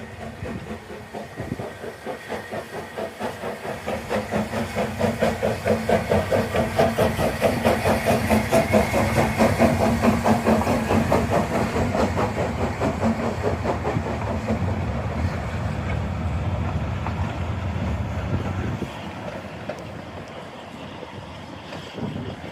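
Narrow-gauge train hauled by the single Fairlie steam locomotive Taliesin running past, with a fast, even rhythmic beat. It grows louder over the first several seconds, holds, then eases and fades near the end.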